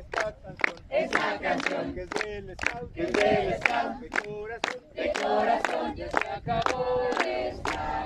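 A group of young voices chanting and singing a campfire song together, with sharp hits about every half second.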